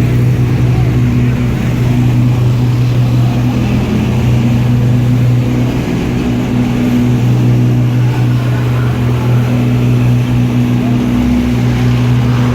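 A large engine running steadily at a constant speed, a loud, even low drone.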